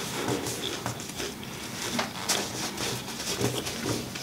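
Close-miked chewing with wet mouth clicks and lip smacks, sharp clicks coming irregularly several times a second.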